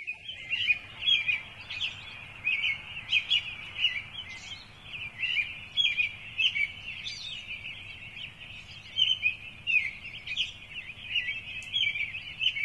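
Birds chirping in a busy chorus of quick, overlapping short calls, over a faint low steady rumble.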